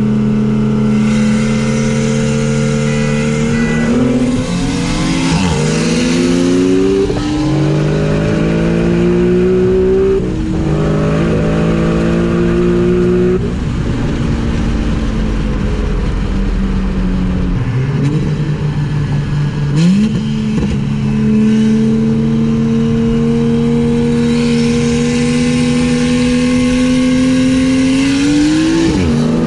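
A boosted car engine under hard acceleration, its pitch climbing and then dropping sharply at each upshift, three times within about ten seconds. It eases off, then pulls again and climbs steadily to one more shift near the end, with a hiss of rushing air during the pulls.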